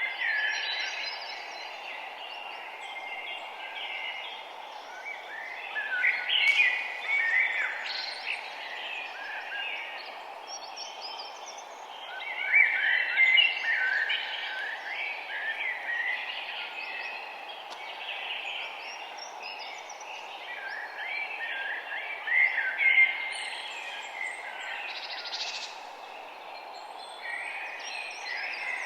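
A dawn chorus of several songbirds chirping and trilling at once, over a steady hiss of background noise.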